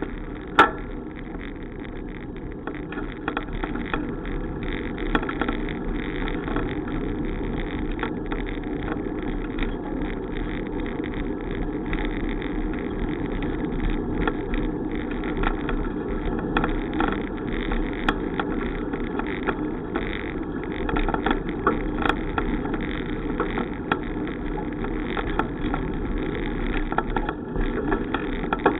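Bicycle being ridden: steady rolling and wind noise, broken by many small clicks and rattles, with one sharp knock about half a second in.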